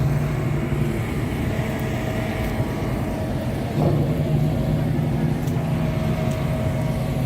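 Car engine running steadily with a low hum, getting louder about four seconds in.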